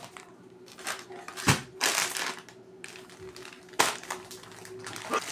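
Plastic grocery packaging crinkling, with a few sharp knocks as items are set down, over a faint steady hum.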